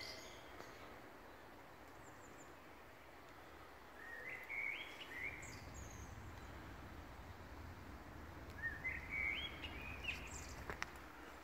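A songbird singing in woodland: two short phrases of quick, stepped rising notes, about four seconds in and again near nine seconds, with a few thin high chirps, over a faint steady outdoor hiss and rumble. A single small click near the end.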